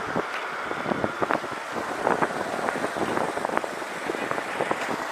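Riding noise from a moving bicycle: steady wind on the microphone with road noise, and many scattered, irregular small clicks and knocks.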